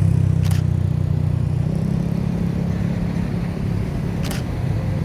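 Steady low engine rumble, with two short clicks, one about half a second in and one near the end.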